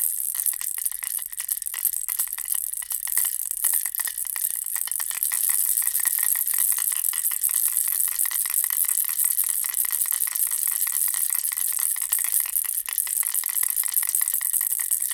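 Bear-ball baby rattle shaken without pause: a dense, fast rattle of clicks that grows a little louder and steadier about five seconds in.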